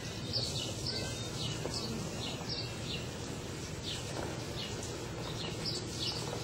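A small bird chirping repeatedly: short, high, downward-sliding chirps, about two a second, over a steady low rumble of outdoor noise.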